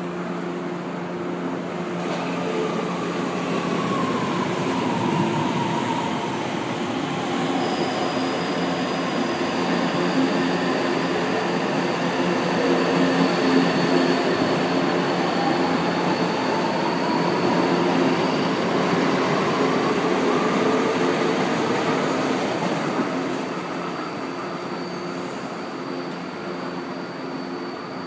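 São Paulo Metro Line 3 train running at the platform: the traction motor whine falls in pitch as a train slows, then rises again as a train accelerates away, over the rumble of wheels on rail. The sound is loudest around the middle and fades near the end.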